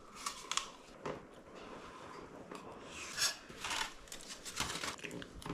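Quiet eating sounds: a few short, scattered clicks and scrapes of a utensil on a camp dish, with chewing.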